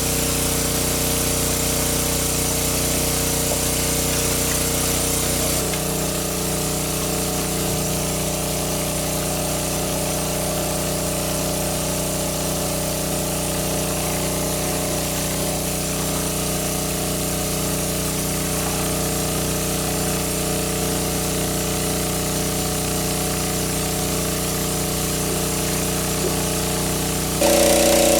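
A small motor running steadily, with a slight change in its tone about six seconds in, then growing louder just before the end.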